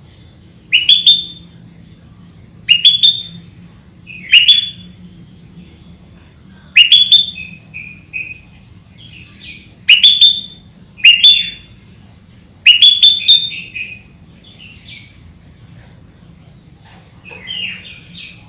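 Sooty-headed bulbul (kutilang) singing: seven loud, short, sharply rising calls, one every one to three seconds, with softer twittering between them and a quieter phrase near the end.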